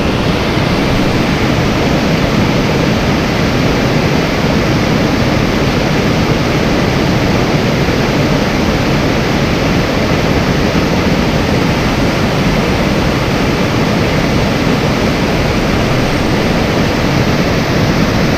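Loud, steady rushing of creek water close to the microphone, an even noise with no breaks.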